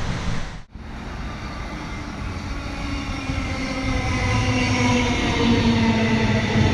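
Electric X'Trapolis suburban train approaching and running through the station, with a motor whine of several steady tones over the rumble. It grows steadily louder after a brief drop in sound under a second in.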